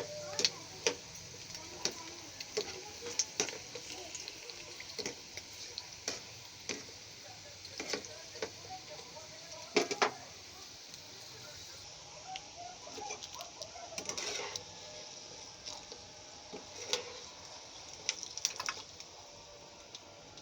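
Papad frying in hot ghee in a pan, a steady sizzle, with frequent taps and scrapes of a utensil against the pan as it is stirred and turned.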